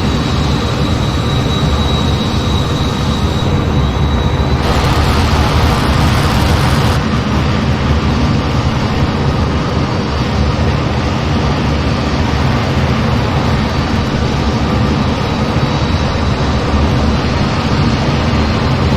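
Steady loud rumble of an F-15 in flight heard from the cockpit, engine and airflow noise with a thin high whine over it. About four and a half seconds in, a burst of hiss rises over it for a couple of seconds and stops.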